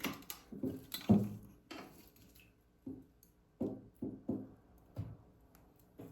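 A kitchen knife cutting food diagonally against a cutting board: a run of irregular knocks, each with a short ringing decay.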